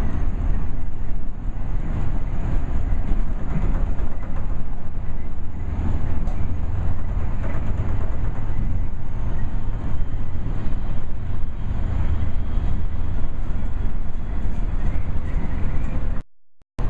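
MARTA rapid-transit rail car in motion, heard from inside the car: a steady low rumble of the wheels on the track and the running gear. The sound cuts out abruptly for under a second near the end.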